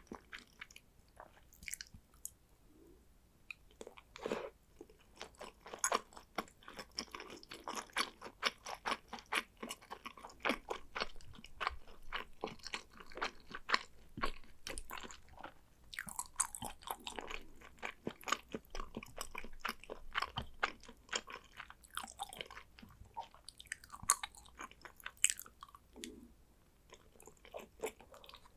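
Close-miked chewing of salmon sushi: a dense run of short wet clicks and smacks, with brief quieter pauses between mouthfuls.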